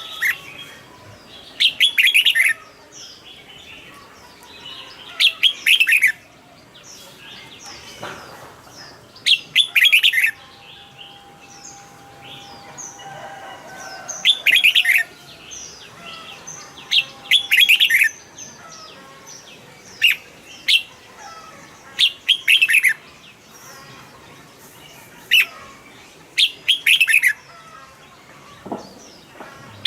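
Red-whiskered bulbul singing loud, short warbled phrases, one every two to three seconds, with fainter chirps in between.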